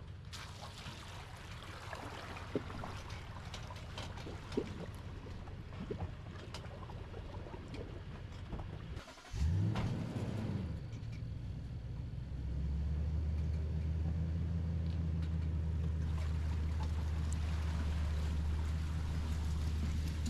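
An engine running with a steady low hum, which revs up about nine seconds in and then settles into a louder, steady run.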